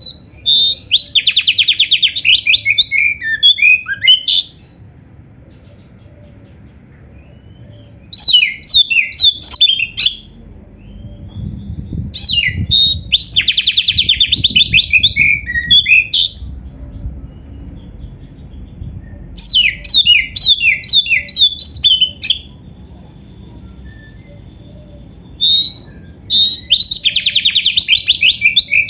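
Oriental magpie-robin singing in five loud bursts of fast, varied whistles and rattling trills, each a few seconds long, with pauses of a few seconds between them.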